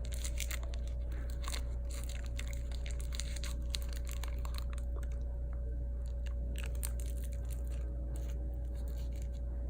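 Small crackling and crinkling clicks of something being handled close to the microphone, scattered irregularly, over a steady low electrical hum.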